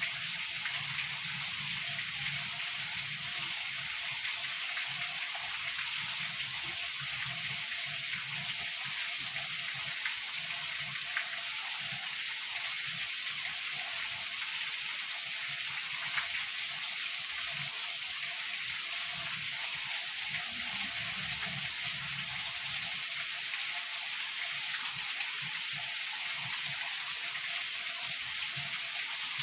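Heavy rain falling steadily, an even wash of dense drops, with a couple of sharper drop hits.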